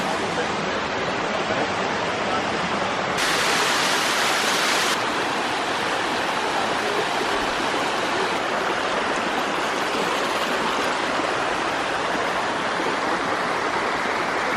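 Steady rush of a waterfall, dense and even, swelling louder and brighter for a couple of seconds about three seconds in.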